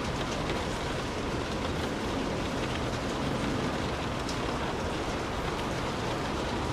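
Steady rain falling, an even wash of noise with scattered individual drops ticking through it.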